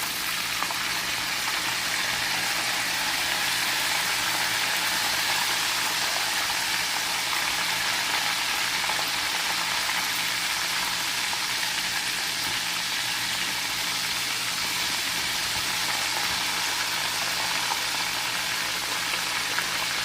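Chicken thighs frying in hot oil, a steady, even sizzle throughout, with a faint low hum underneath.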